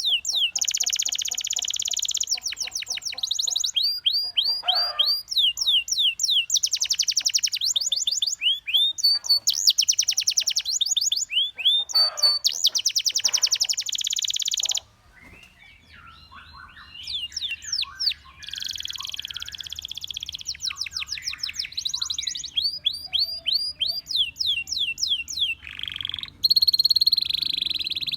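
Domestic canary singing: long runs of rapid, repeated downward-sliding notes and fast trills, broken by a brief pause about halfway through.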